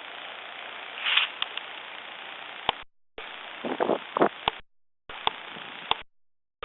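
Steady hiss of wind on a small camera microphone with a few short louder gusts. It breaks off into dead silence several times, with a click at each cut.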